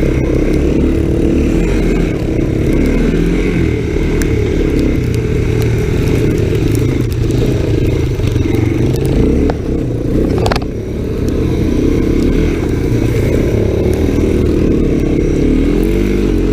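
Honda ATC three-wheeler engine running under changing throttle while riding, its pitch wavering up and down through the turns. A single sharp knock about ten and a half seconds in.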